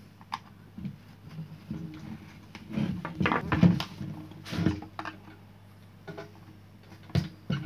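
Clicks, knocks and scraping of an angle grinder's housing being handled as its rear cover is taken off, busiest about three to five seconds in.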